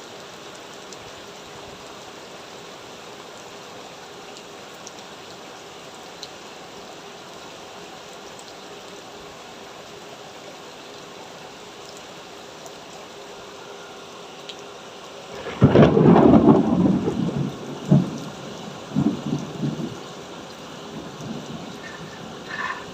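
Heavy rain falling steadily. About fifteen seconds in, a loud clap of thunder breaks out and rolls on for several seconds, followed by a few weaker rumbles.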